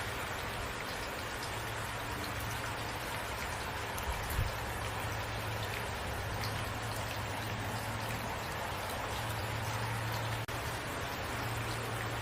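Steady rain falling, a continuous hiss of drops on surfaces, with a brief low thump about four seconds in.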